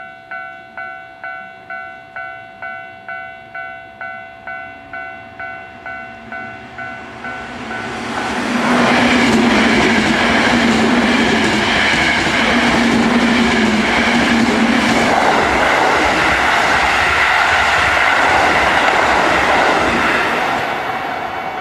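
Level-crossing warning bell ringing about twice a second. From about eight seconds in, it is drowned out by electric commuter trains passing close by, a Toei 5300 series and an oncoming local, with loud wheel and rail noise. A steady low hum in the trains' noise stops about fifteen seconds in.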